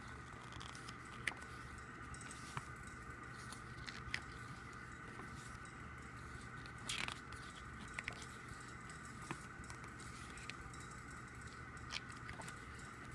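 Pages of a thick album photobook being handled and turned: scattered soft clicks and a brief paper rustle about seven seconds in, over a steady faint hiss.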